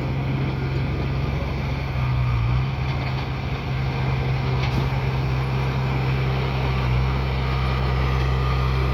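Heavy diesel engine of a bulldozer running steadily, with a slight shift in pitch about two and a half seconds in.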